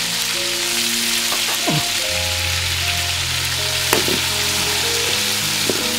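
Small whole squid sizzling in hot oil and chili sauce in a steel wok, a steady frying hiss. Background music with held notes plays underneath.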